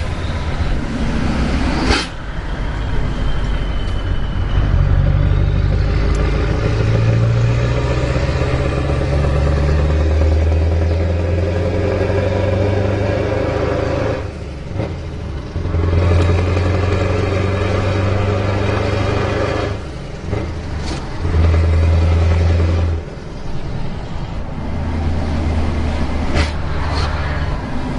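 Scania V8 diesel truck engine running under load. Its deep note rises and falls in steps, broken by several brief dips, with a few sharp clicks.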